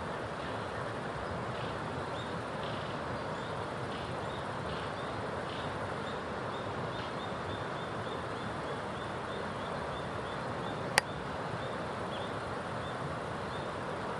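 A small bird giving a long series of short, high chirps, several a second, over a steady rushing background noise. A single sharp click sounds about eleven seconds in.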